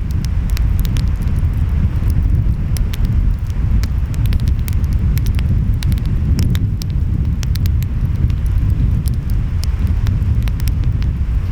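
Wood fire crackling, with many irregular sharp pops and snaps, over a steady low rumble of ocean waves and wind.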